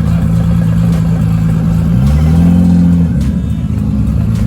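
Car engine running loudly at a steady speed, then revved about two seconds in: the pitch rises, holds for about a second and drops back.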